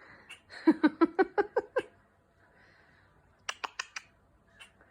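Domestic cat chattering at birds outside the window: a quick run of about eight clipped, pitched chirps. A little later comes a short burst of sharp high clicks.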